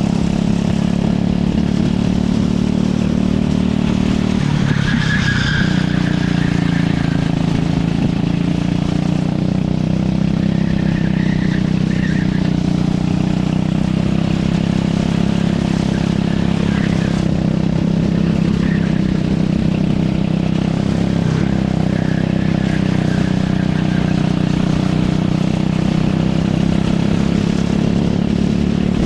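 Kart engine running steadily at speed, its pitch shifting only slightly, with a brief higher-pitched sound about five seconds in.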